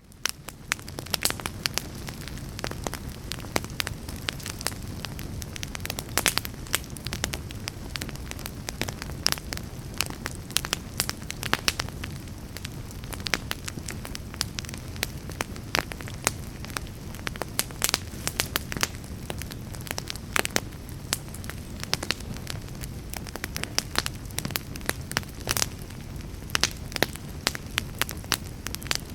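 Log fire crackling: irregular sharp pops and snaps over a steady low rumble of burning.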